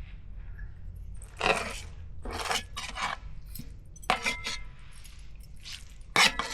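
Dishes and utensils handled: a few short scrapes, then sharp metallic clinks that ring briefly, twice in the second half.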